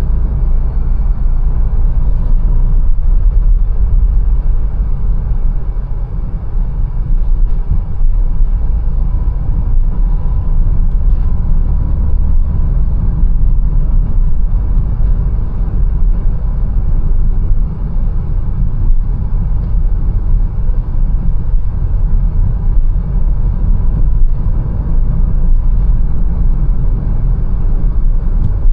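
Mercedes-Benz A180 driving along city streets: a steady low rumble of engine and tyre-road noise, easing slightly a couple of times.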